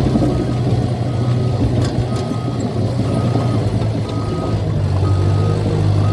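Caterpillar bulldozer's diesel engine running steadily under the rattle of its tracks, with its backup alarm beeping about once a second as the dozer reverses.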